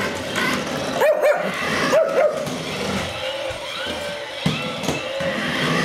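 A Shih Tzu barking in short, high barks: two quick double barks about one and two seconds in, then more barking later, over a steady background whir.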